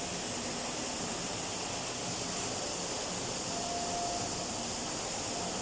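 Steady hiss, with a faint brief tone a little past the middle.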